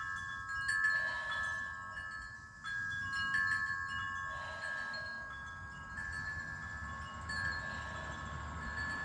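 Wind chimes ringing: a few clear, sustained tones, struck again irregularly every second or two.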